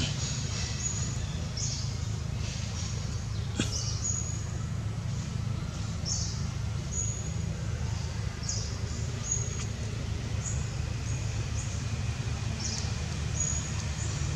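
A bird repeating a short high chirp, a quick downward sweep ending in a brief level note, about once every second or so, over a steady low rumble. A single faint click about three and a half seconds in.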